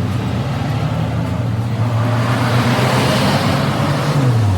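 An engine running steadily, with a rush of noise swelling and fading as a vehicle passes, and the engine note dropping near the end.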